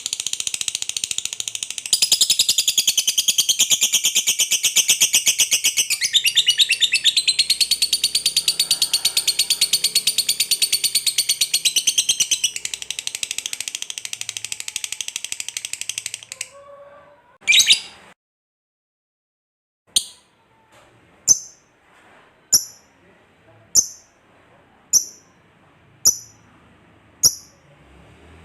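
Lovebird ngekek: a long, very rapid high-pitched chattering trill lasting about sixteen seconds, followed by a single short call, a brief pause, and then eight short sharp chirps about a second and a quarter apart.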